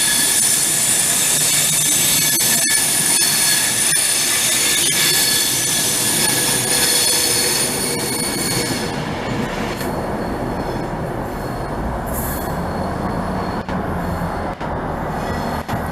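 Train wheels squealing on the rails as a train moves through, with several high, steady squealing tones at once. The squeal stops about eight or nine seconds in, leaving the lower rumble of the train running on.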